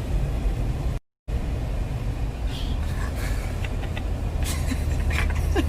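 Steady low rumble, cut off briefly about a second in, with faint voices in the background.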